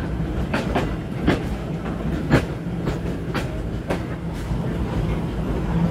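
Steam-hauled train rolling along the track: a steady low rumble with about seven sharp clicks at uneven intervals as the wheels pass over rail joints.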